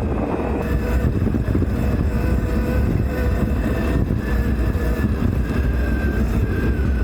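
Sur-Ron electric dirt bike being ridden: a steady, faint motor whine that drifts slightly in pitch, under heavy wind rumble on the microphone.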